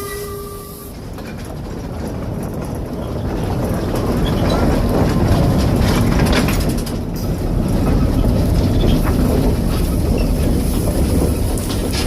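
A train running along the track: a steady low rumble with scattered clicks and clatter, growing louder over the first few seconds and then holding.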